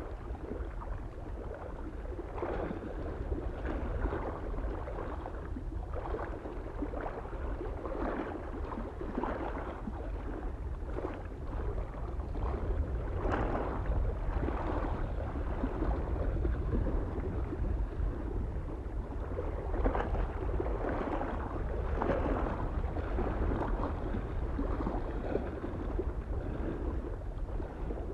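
Small waves lapping and splashing irregularly against a lake shore, over a steady low rumble of soft wind.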